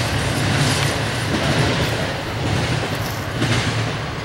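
Norfolk Southern intermodal freight cars rolling past on the track: a steady low rumble of steel wheels on rails.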